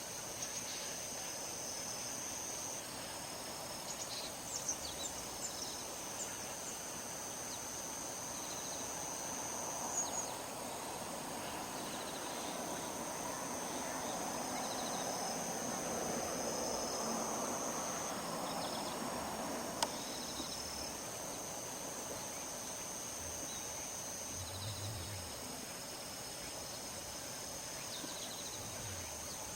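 Insects trilling in a steady high pitch that breaks off and resumes a few times, over a soft rush of wind through the rice field that swells in the middle. There are a few short bird chirps.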